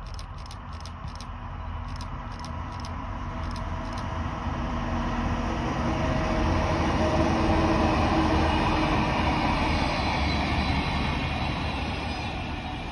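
Locomotive-hauled train passing on the rails: a rumble of wheels that swells as the two locomotives go by, loudest about eight seconds in, then fades as the coaches pass.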